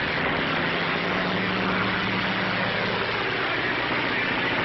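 Propeller aeroplane engines droning steadily on an old 1930s film soundtrack, with a dense hiss-like roar and a steady low engine tone for a couple of seconds in the first half.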